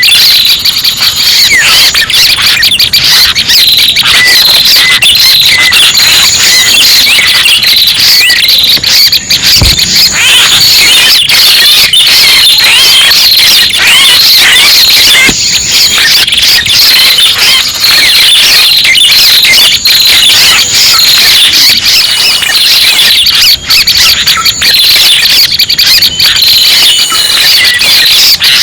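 Loud, unbroken twittering and chirping of small birds: a prenjak lure-call recording, a dense overlapping stream of quick chirps and trills with short high whistled notes that recur every few seconds.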